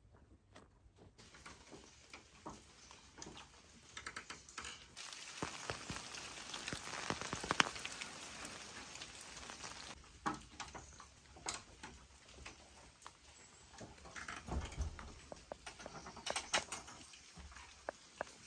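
Rain falling steadily, the patter swelling for a few seconds in the middle, with scattered sharp drips and clicks.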